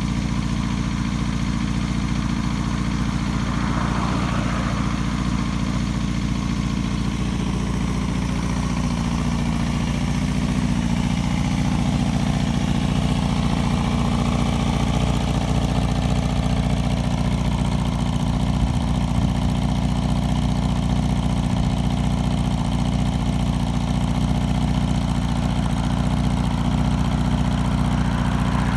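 Suzuki GSX-R250 (GJ72A) 250 cc inline-four engine idling steadily through a GP-type megaphone exhaust.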